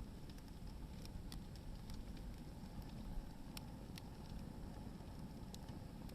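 Hardwood firewood burning in an open bonfire: a steady low rumble with a handful of sharp crackling pops from the burning wood.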